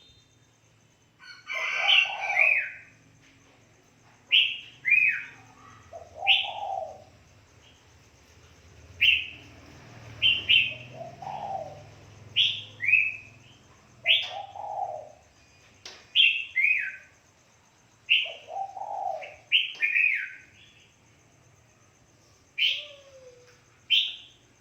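A dove cooing repeatedly, its low coos falling every couple of seconds between sharp, high, falling chirps from other birds, with a faint low hum underneath.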